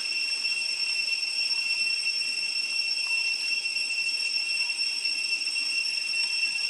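Cicadas droning steadily at one high pitch, over a faint hiss.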